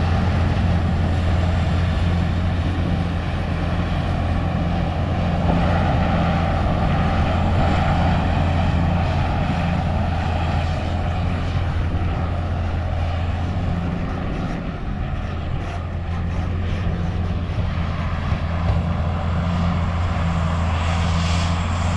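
Heavy diesel farm machinery running steadily during corn silage chopping, a deep constant engine drone.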